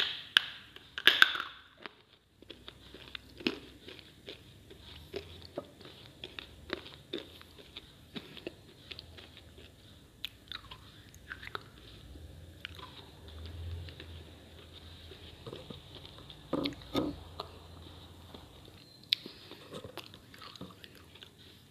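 Slate bars being bitten and chewed: hard, crunchy snaps as pieces break off, then repeated crunching chews. The loudest bites come about a second in and again about two-thirds through.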